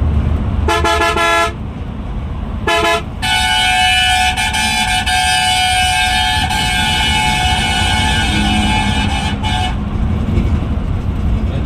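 Vehicle horn sounding three times: a short blast, a brief toot, then one long held blast of about six seconds, over the steady low drone of a moving bus.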